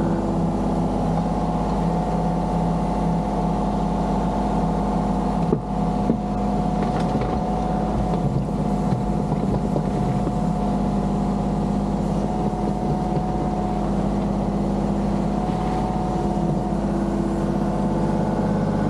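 An engine running steadily at an even speed, with a brief knock about six seconds in.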